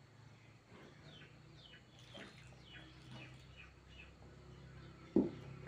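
Faint birds chirping: a run of short, quick falling chirps over a low steady hum, with a single sharp click near the end.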